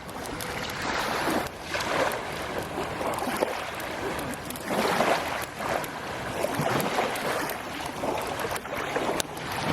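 Waves washing onto a shore, a noisy rush that swells and falls every second or two, with wind on the microphone.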